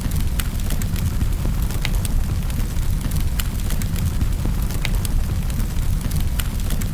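Fireplace fire burning with a steady low rumble and irregular sharp crackles and pops, a few a second.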